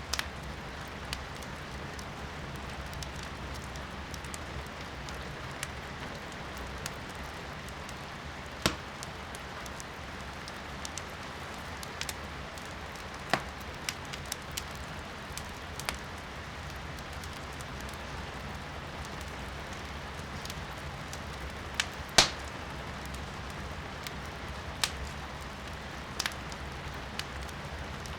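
Firewood burning in a fireplace, crackling with scattered sharp pops, the loudest about 22 seconds in, over a steady hiss of rain.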